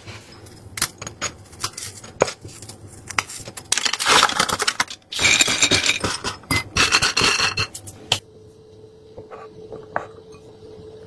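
Kitchen clatter: dishes and utensils clink and scrape, thickest in the middle. Near the end it gives way to a steady low hum.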